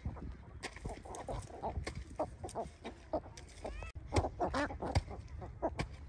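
Birds calling in a busy run of short repeated notes, several a second, busiest about four to five seconds in, with a thin rising chirp about three seconds in.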